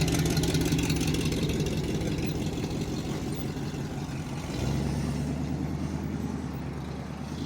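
A car's V8 engine running steadily at idle, shifting to a deeper note about four and a half seconds in.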